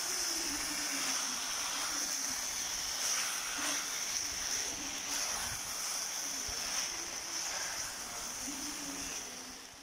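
Chicken pieces sizzling in hot oil in a pan while a wooden spatula stirs them. The sizzle fades away near the end.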